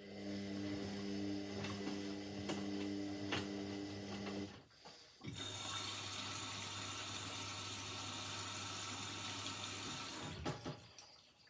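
Indesit 71252 washing machine taking in water: a steady electrical hum over running water for about four seconds, a short break, then a brighter rush of water for about five seconds that stops shortly before the end.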